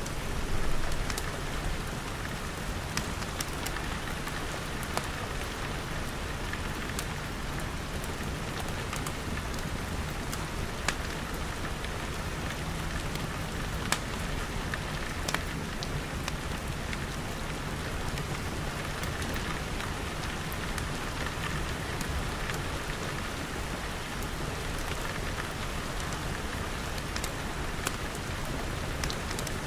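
Steady rain pattering on glass, with scattered sharp pops and crackles from a wood fire.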